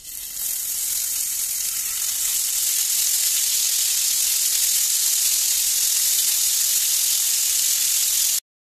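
Paneer cubes sizzling in hot oil in a frying pan as they are laid in; a steady high hiss that swells over the first second and cuts off suddenly near the end.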